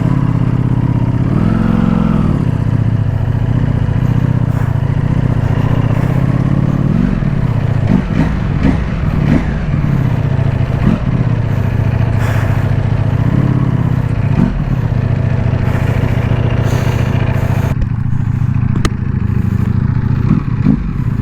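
Ducati Panigale V4S's V4 engine running at low revs, its pitch rising and falling a few times as the throttle is opened and closed, with a few short knocks about eight seconds in.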